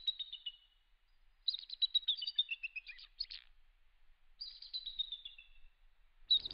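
A songbird singing: three or four short phrases of rapid high notes, each falling in pitch, with pauses of about a second between phrases.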